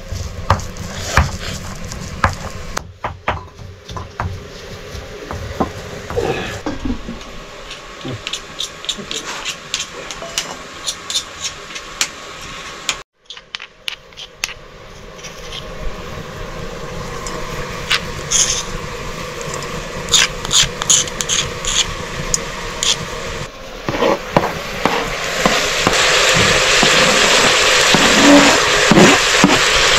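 Cooking utensils clicking and knocking against pots, with a brief break about halfway through. About three-quarters of the way in, a loud sizzle of food frying in a hot pan swells up and continues, with stirring.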